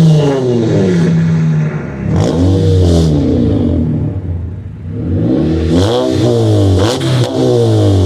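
Car engine being revved several times, its pitch climbing and falling with each rev.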